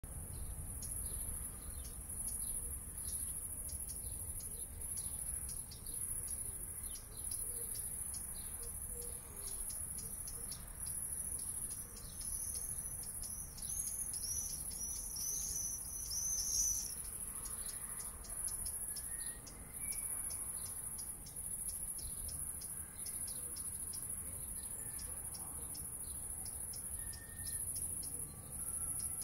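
Crickets chirring in a continuous high-pitched pulsing trill, with a bird singing a short run of phrases about halfway through and a faint low rumble underneath.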